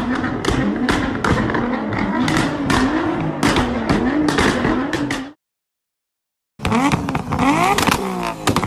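Nissan GT-R's twin-turbo V6 being revved hard, the engine note rising and falling about every half second, with sharp exhaust pops and bangs. It drops out to silence for about a second, then another burst of revving with crackles follows.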